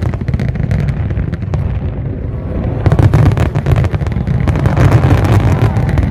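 Aerial fireworks display: a rapid run of bangs and crackles over a continuous low rumble, thickest a few seconds in.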